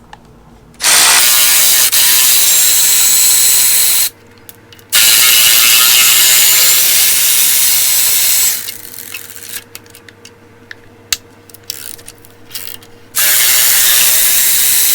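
Power ratchet running in three loud bursts of about three seconds each, spinning bolts off the engine, with light clicks and taps of tools between the bursts.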